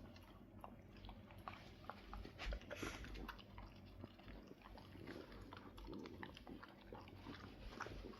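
A mixed-breed dog chewing and eating food: faint, quick, irregular clicks and smacks of its mouth and teeth.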